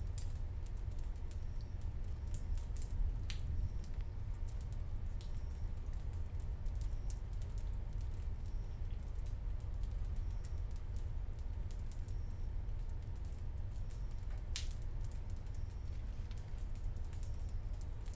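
Raindrops dripping and pattering in irregular sharp ticks, a couple of them louder, over a steady low rumble.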